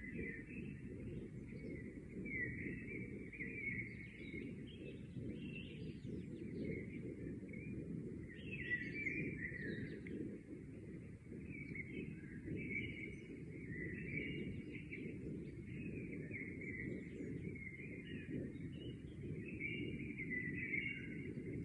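Birds chirping and twittering without a break, many short calls overlapping, over a steady low rumble.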